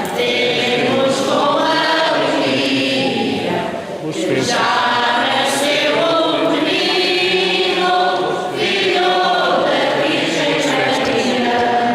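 Church choir or congregation singing a hymn a cappella, phrases held and joined by short breaths about four and eight seconds in.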